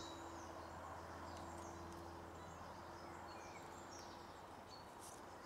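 Faint garden birdsong, scattered short chirps, over a steady low hum.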